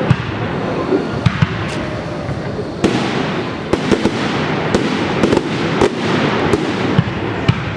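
Fireworks display: a dense, continuous crackling, broken by many sharp bangs of shells and salutes going off several times a second.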